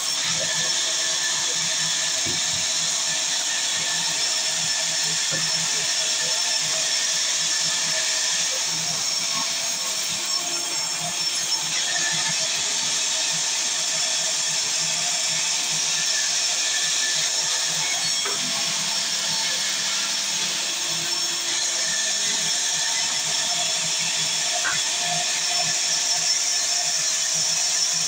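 Sawmill saw running steadily, a continuous high-pitched mechanical whine with a few faint ticks.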